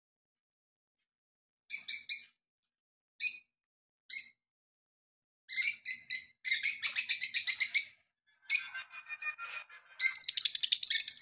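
Small songbirds chirping: a few short, high calls, then rapid twittering runs about six seconds in and again near the end.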